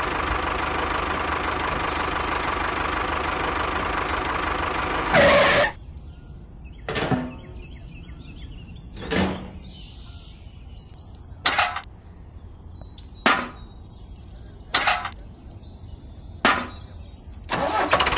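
A tractor engine runs steadily for about five seconds and cuts off just after a louder burst. Then come six short knocks, roughly one every second and a half, and the engine sound starts again near the end.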